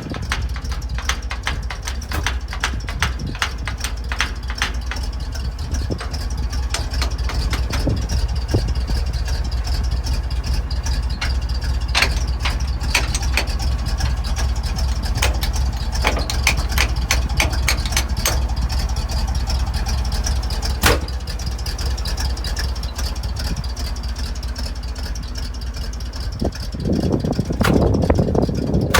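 1971 International truck engine idling: a steady low rumble with frequent sharp ticks, growing louder for a couple of seconds near the end.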